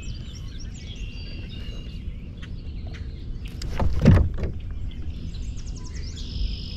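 Birds chirping and singing in short phrases over a steady low rumble of wind and water, with one brief louder noise about four seconds in.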